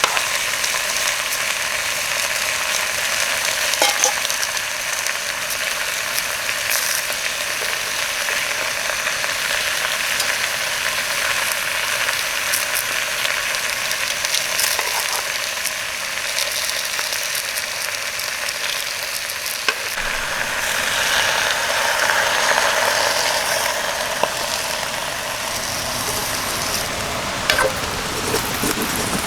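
Pork belly and vegetables frying over a campfire, sizzling steadily, with a few sharp clicks. About two-thirds of the way through, the sizzle grows fuller and a little louder.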